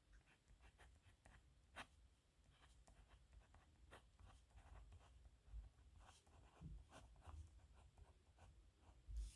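Pen nib scratching on paper in faint, short, irregular writing strokes.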